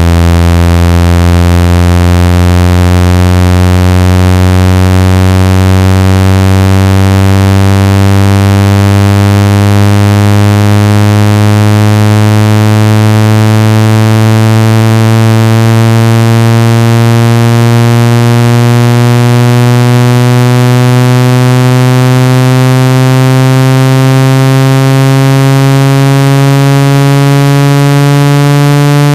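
Synthetic speaker water-ejection tone: a loud, buzzy low tone with many overtones, its pitch slowly rising. It is played at full volume so the speaker cone vibrates trapped water out of a wet phone or earphone speaker.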